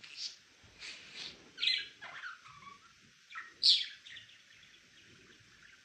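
Budgerigar chirping: a run of short, irregular chirps and warbles, with the loudest chirp about three and a half seconds in.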